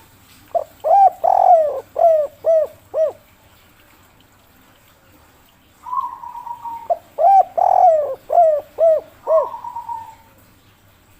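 Spotted dove (tekukur) of the 'kuk 3' call type cooing, two phrases. Each phrase is a held fluttering note followed by a quick run of five or six short, falling coos. The second phrase starts about six seconds in.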